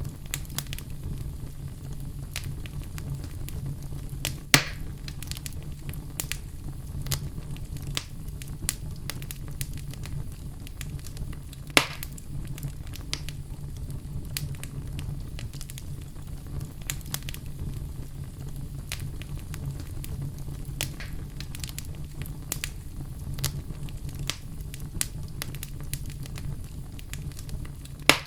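Wood fire burning in a fireplace: a steady low rumble with scattered crackles and three sharp, louder pops from the burning logs.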